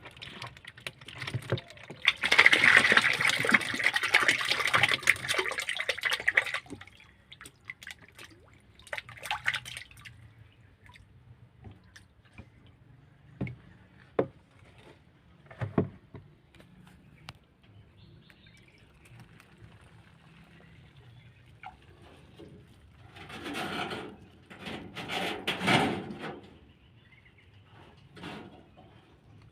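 Water pouring and splashing as fish fry are tipped into a pond: a long loud pour about two seconds in, scattered drips and small splashes, then two shorter pours near the end.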